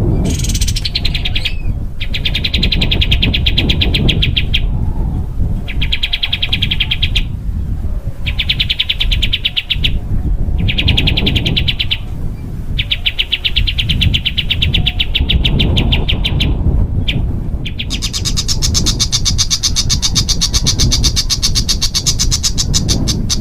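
A small songbird giving a series of harsh, very rapid rattling trills, each a second or two long with short pauses between. Near the end comes one longer, higher-pitched trill. A low rumble runs underneath.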